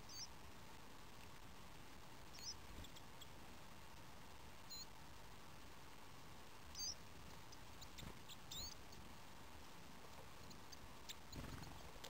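Faint, thin, high-pitched bird calls: about five short squeaky notes spaced a couple of seconds apart, with a few faint ticks between them.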